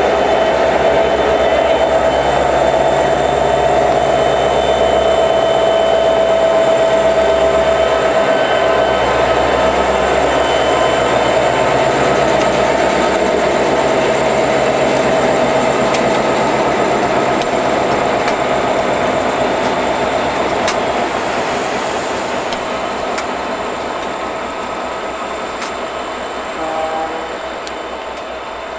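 A train running past on the rails, a steady loud rumble and rail noise with held tones, dying away over the last ten seconds or so as it moves off.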